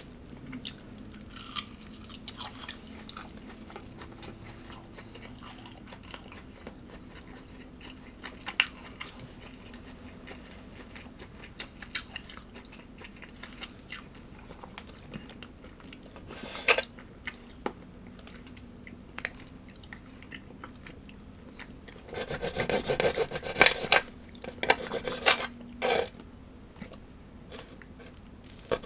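A person chewing food close to the microphone: soft mouth clicks and occasional crunches, then a louder run of crunching bites about three quarters of the way through.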